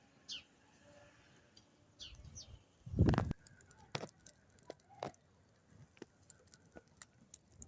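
Small birds giving short, high chirps that fall in pitch, a couple near the start and a pair about two seconds in. A loud low thump comes about three seconds in, and scattered light clicks follow.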